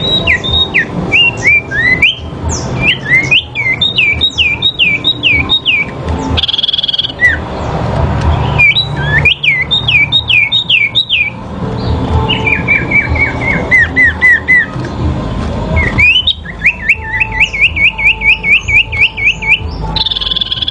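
Sirpu songbirds singing in a duel: rapid phrases of sharp, down-slurred whistled notes, several a second, repeated in bursts with short pauses between, over a steady low background noise.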